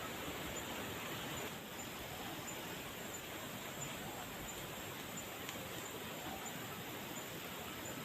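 Steady outdoor ambient noise with a faint high call repeating at a steady pace, from a bird or insect.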